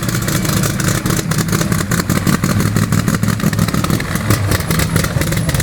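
Loud car engine running with a rapid, steady exhaust beat.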